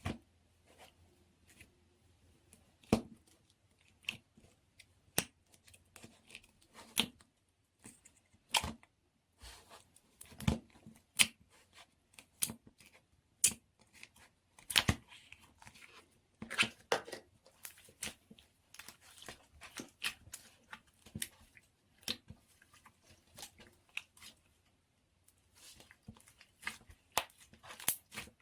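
Pink slime being worked by hand as cloud slime is mixed in: irregular sticky clicks, snaps and pops, about one or two a second, some sharp and loud, others soft.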